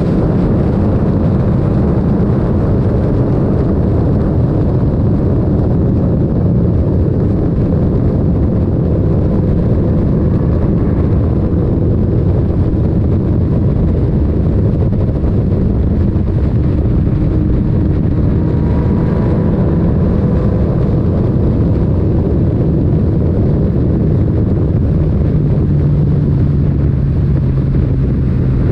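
Yamaha MT-09's inline-three engine running through an Akrapovic titanium exhaust while the bike is under way, a steady loud drone with the engine note shifting slightly near the end.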